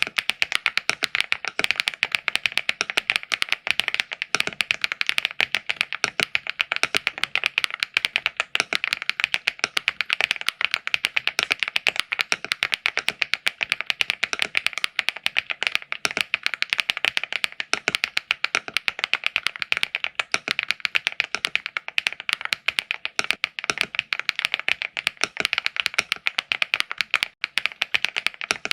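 Fast typing on a LEOBOG AMG65 mechanical keyboard: a dense, unbroken stream of key clacks, with a brief pause about 27 seconds in.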